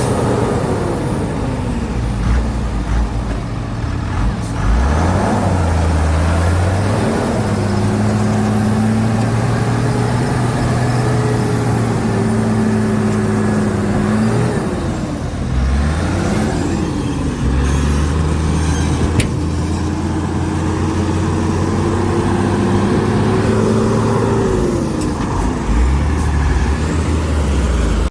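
Heavy diesel engine of a Shantui DH17 C2 bulldozer working, its pitch sinking and climbing again several times as it takes load and revs back up, with steady stretches between.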